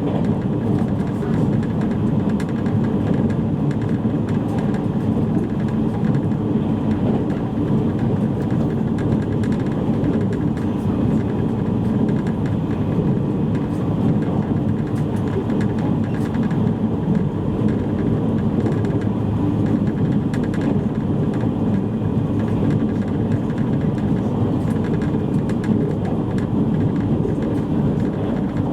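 Steady running noise inside a JR East E653 series electric train moving at speed: a constant low rumble of wheels on rail, with a faint steady whine above it.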